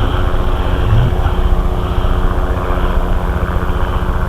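Helicopter flying overhead: a steady, rapid low chop of its rotor blades with a faint steady hum above it.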